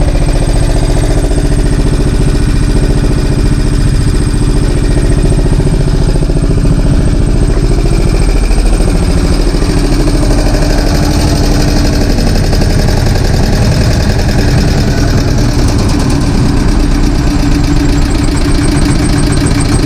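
Deutz F1L511 single-cylinder air-cooled diesel engine running steadily, driving the light tower's generator.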